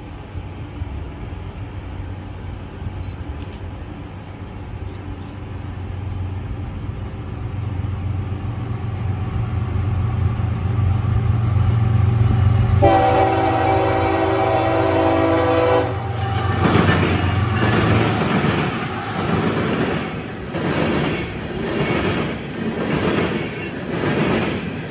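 CSX empty coal train led by GE ES44AC diesel locomotives approaching, its engine rumble building, with one locomotive horn blast of about three seconds about halfway through. As the locomotives pass, empty coal hopper cars roll by with a rhythmic clatter of wheels on the rails.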